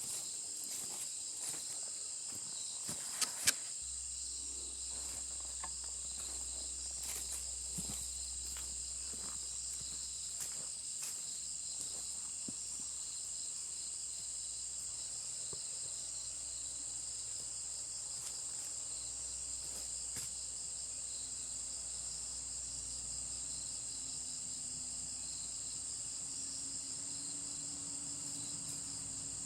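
Steady chorus of insects, a shrill high drone that holds throughout, with a few sharp clicks or knocks in the first few seconds.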